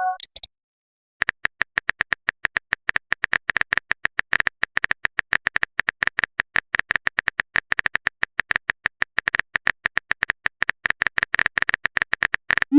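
Rapid, even run of short keyboard-tap clicks, about eight a second, the typing sound effect of a phone chat. Near the end a short rising swoosh begins.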